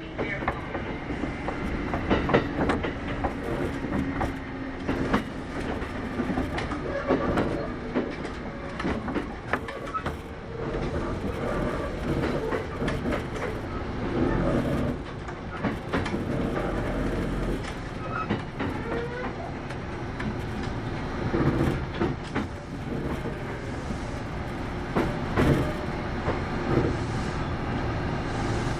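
Kintetsu 8810 series electric train running along the line, heard from inside the car: a steady rumble of wheels and traction motors, with frequent clicks from the rail joints.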